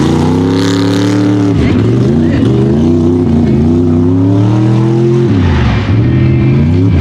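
Mega truck engine running at full throttle. Its pitch climbs steadily and drops sharply about a second and a half in, then climbs again and drops near five seconds, like shifts through the gears.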